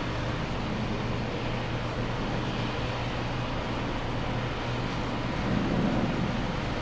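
Steady airport runway noise from jet aircraft: a low engine hum under an even rushing hiss, swelling briefly about five and a half seconds in.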